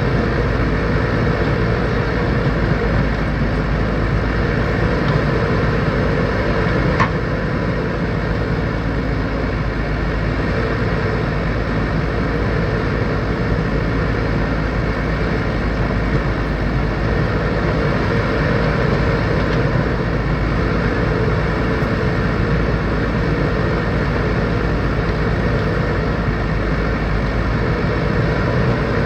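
Backhoe loader's diesel engine running steadily under work, with a short sharp click about seven seconds in.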